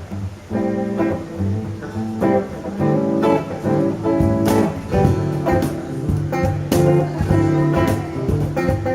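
Live acoustic music without singing: acoustic guitar strumming, with sharp beats on a cajon.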